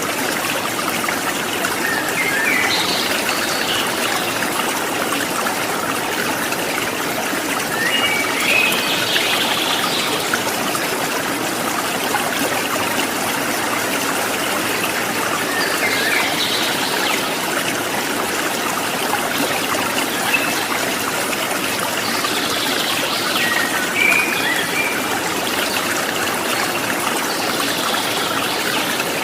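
Small stream trickling and splashing steadily, with birds chirping in short bursts about five times, every five or six seconds.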